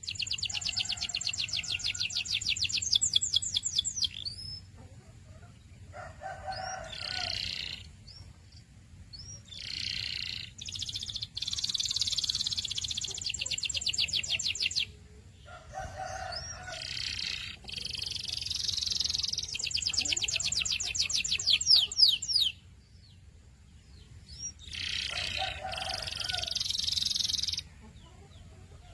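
Canary singing: a run of song phrases, several of them long, fast trills or rolls of rapidly repeated high notes, broken by pauses of a second or two.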